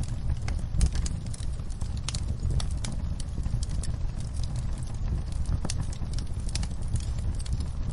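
Wood fire crackling and popping in a fireplace: scattered sharp snaps over a steady low rumble of the flames.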